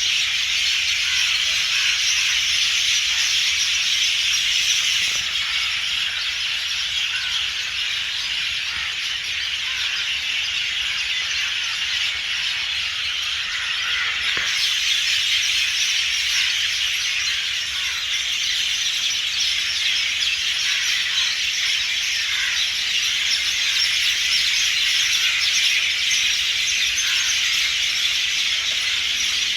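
Dense, continuous chorus of many birds chattering and calling together in trees, a steady high-pitched wash of overlapping calls with few single notes standing out.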